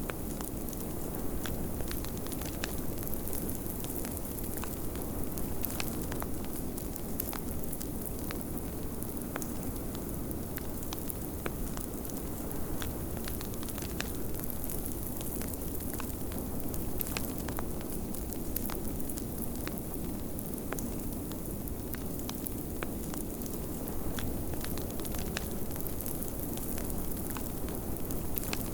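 Wood fire crackling, with frequent irregular sharp pops and snaps over a steady rushing of blizzard wind.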